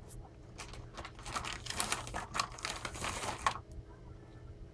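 Crinkling and clicking of packaging being rummaged through by hand, a dense run of crackles in the middle.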